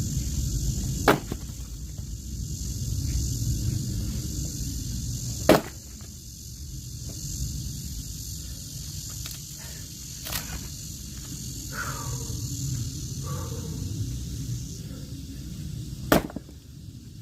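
Four sharp axe strikes splitting logs, spaced about four to five seconds apart, over a steady low rumble.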